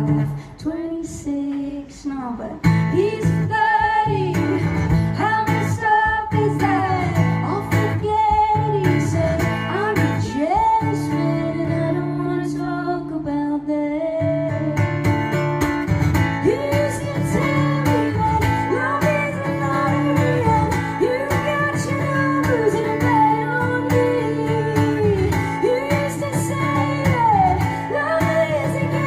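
A woman singing a pop-rock song live over strummed guitar, softly for the first couple of seconds, then at full strength.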